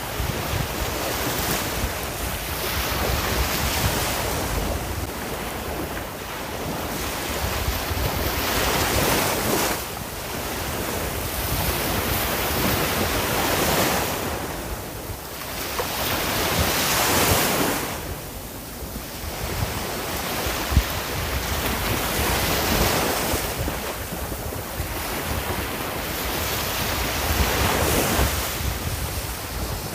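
Sea waves surging and breaking in continuous surf, swelling and easing every four to five seconds, over a low wind rumble on the microphone.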